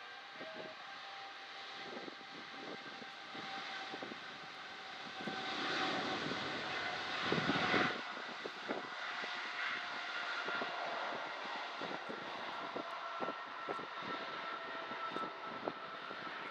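Boeing 777-300ER's GE90 jet engines at takeoff power: a steady jet noise with a faint whine that swells to its loudest about six to eight seconds in, then eases back to a steady level.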